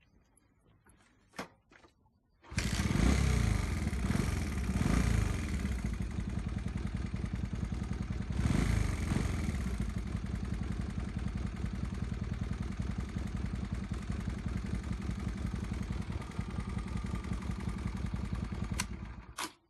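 A Honda CD125T Benly's 125 cc air-cooled parallel-twin engine is started. It catches about two and a half seconds in after a couple of faint clicks, is revved twice, then idles steadily until it is switched off near the end.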